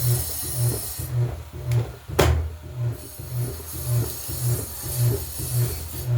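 Washing machine running, its low hum pulsing evenly about twice a second, with one sharp knock about two seconds in.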